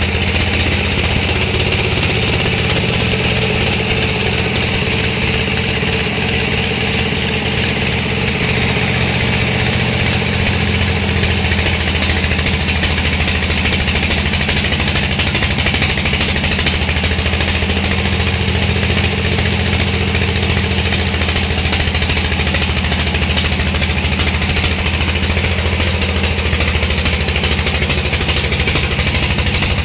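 Sawmill machinery running steadily: a low motor hum under a constant hiss.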